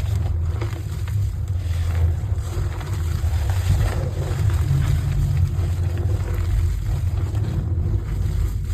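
Heart-shaped pieces of coloured gym chalk being crushed and crumbled, soft crackles over a steady low rumble.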